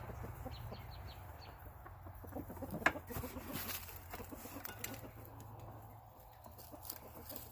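Chickens clucking in the background over a low steady hum. Scattered light clicks of hands working on metal parts, with one sharper click about three seconds in.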